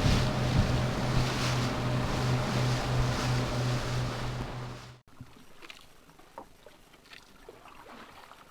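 Boat engine running steadily under loud wind and water rush. About five seconds in it cuts off suddenly to a much quieter stretch with a few faint knocks.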